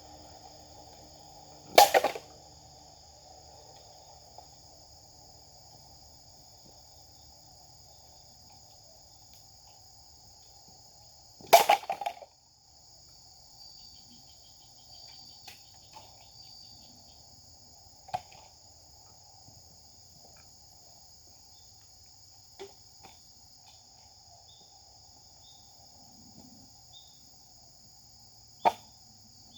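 A Japanese sword (katana) swung in two hard cuts about ten seconds apart, each a short loud rush of sound. Fainter sharp clicks follow later, over steady chirring of insects.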